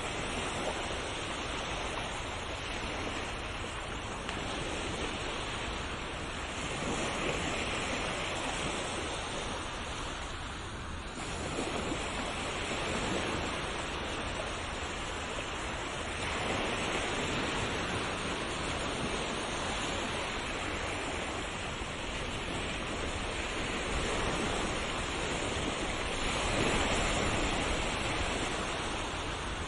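Ocean waves washing onto a shore, a continuous rush of surf that swells and eases every few seconds.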